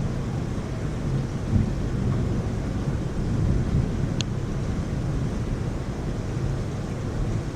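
Heavy rain hissing steadily under a low rumble of thunder that swells and fades. A single brief sharp tick about four seconds in.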